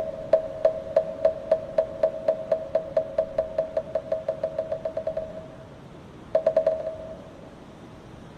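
Moktak, the Korean Buddhist wooden fish, struck in a steady beat that speeds up into a fast roll and fades out a little past five seconds in. About a second later comes a short quick run of strikes.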